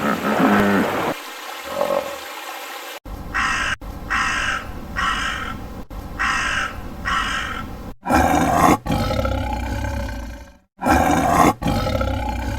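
A run of animal calls: a short call at the start, then about five evenly spaced repeated calls, then two long, loud, deep calls in the second half.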